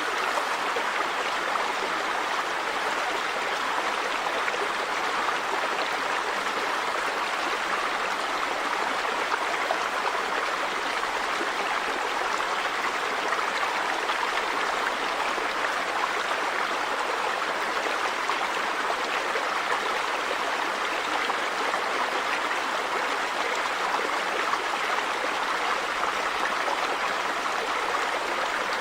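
River water running over stones in a steady rush, with no pauses or changes.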